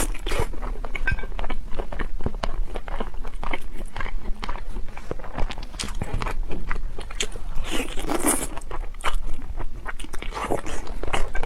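Close-miked eating: crunchy biting and chewing, a dense run of irregular crackles and snaps, loudest about eight seconds in.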